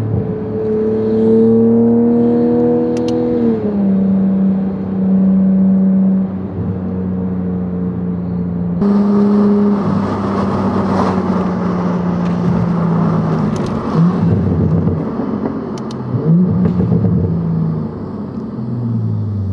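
Toyota Supra's B58 turbocharged inline-six, breathing through a catted downpipe and titanium exhaust, pulling hard with its note rising, then dropping at an upshift about three and a half seconds in. It then holds a steadier note that slowly falls, with rising road and wind rush from about halfway through.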